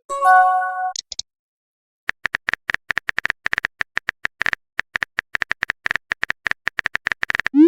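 Phone text-message sounds: a short multi-tone notification chime as a message arrives, then a quick run of virtual-keyboard typing clicks for about five seconds, ending with a rising swoosh as a message is sent.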